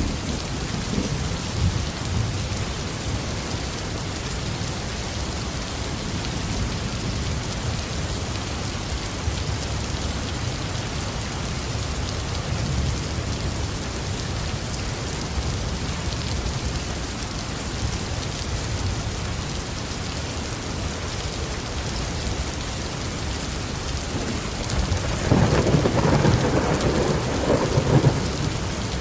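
Heavy rain falling steadily on a roof under low rolling thunder, with a louder thunderclap rumbling for a few seconds near the end.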